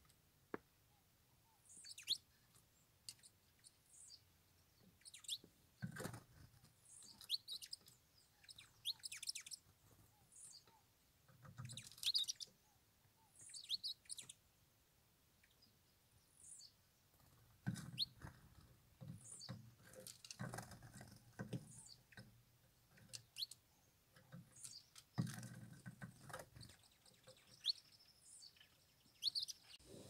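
Saffron finches giving short, high chirps scattered throughout, with a few soft low thumps in between.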